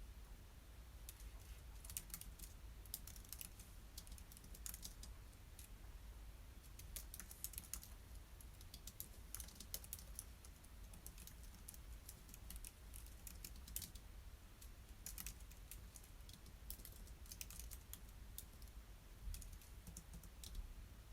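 Faint typing on a computer keyboard: irregular runs of quick keystrokes with short pauses between them.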